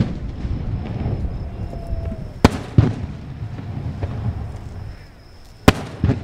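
Aerial firework shells bursting: two sharp bangs in quick succession about two and a half seconds in, and another pair near the end, over a low rumble.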